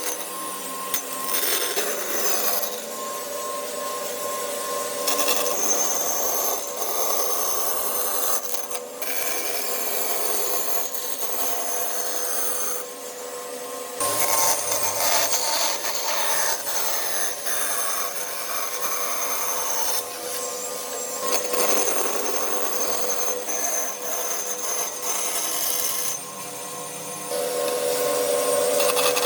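Power tools working wood, a steady motor whine over the rasping of the cut, changing abruptly several times as one clip cuts to the next.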